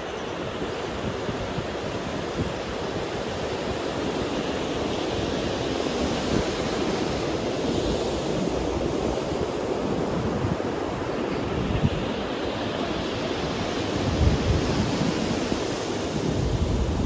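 Ocean waves breaking and washing onto a beach, a continuous surf that swells and eases. Gusts of wind rumble on the microphone near the end.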